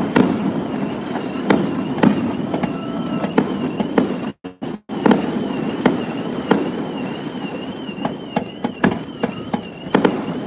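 Fireworks display going off: many sharp bangs at irregular intervals over a continuous rumble of bursts and crackle. The sound drops out for a split second twice near the middle.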